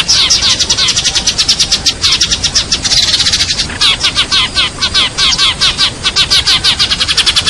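Sparrows chirping loudly and without pause, a dense run of about nine or ten high chirps a second.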